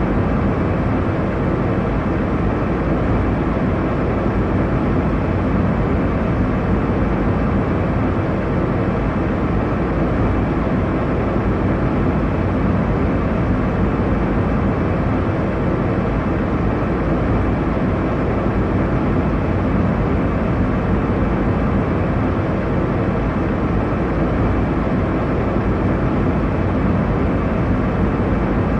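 Airliner cabin noise in flight: a steady, even rushing hum of engines and airflow, deepest in the low end, without change.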